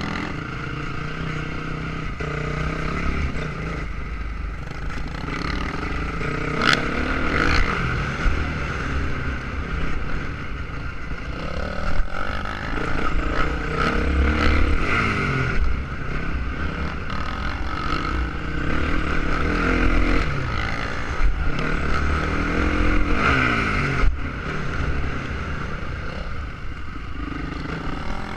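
Motocross motorcycle engine running and revving, its pitch rising and falling again and again, over a steady low rumble.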